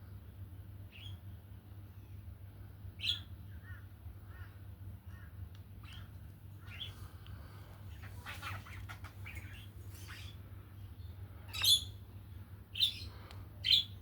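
Birds calling with a run of short chirps and squawks, with a loud squawk about three seconds in and three more loud squawks close together near the end.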